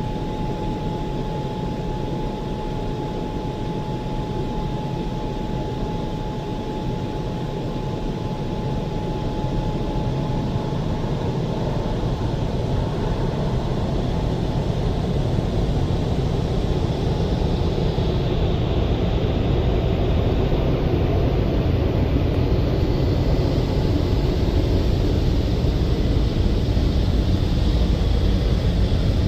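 WashTec SoftCare SE car wash dryers running: the rotary roof dryer and side dryers blowing air over the car, a steady rush that grows louder in the second half. A faint steady whine fades out about ten seconds in.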